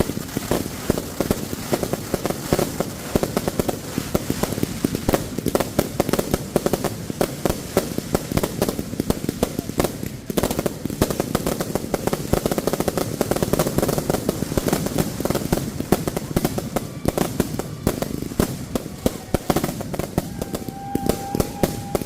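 Consumer firework cakes going off: dense, rapid popping and crackling with no let-up. A faint steady tone comes in near the end.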